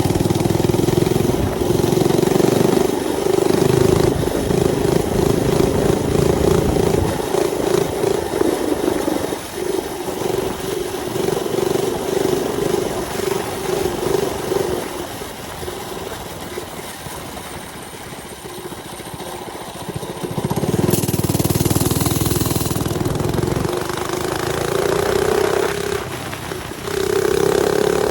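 Mini bike's small engine running under way, holding a steady pitch, then easing off about fifteen seconds in. It picks up again with rising revs near the end.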